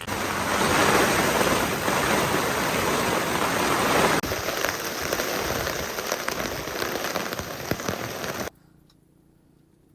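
Heavy typhoon rain pouring down, a loud, steady hiss of drops, in two shots joined about four seconds in; it cuts off suddenly about a second before the end.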